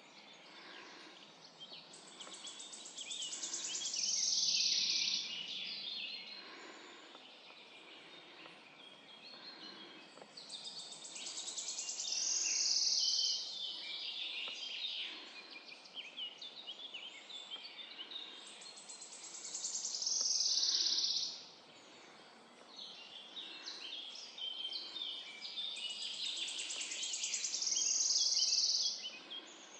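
A songbird repeats the same high song phrase of about three seconds, a fast trill followed by a louder ending, four times at roughly eight-second intervals. Fainter chirps from other birds fill the gaps in the morning forest chorus.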